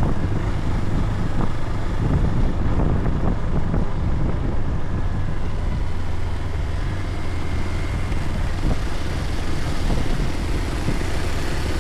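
Motor vehicle running steadily: a low, even engine drone with noise over it.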